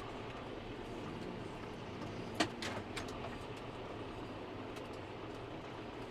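Tractor engine running steadily on the move, with one sharp knock about two and a half seconds in, then two fainter clicks.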